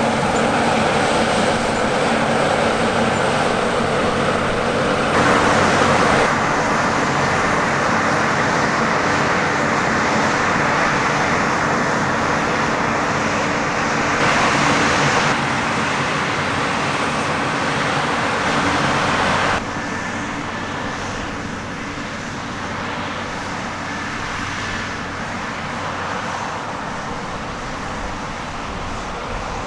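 Heavy diesel harvest machinery running steadily, with no speech. The sound changes abruptly several times, about 5, 14 and 19 seconds in, as the shots change.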